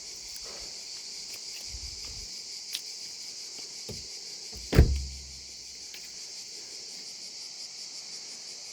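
Cicadas singing in a steady, dense, high-pitched chorus. A single loud thump about five seconds in stands out above it.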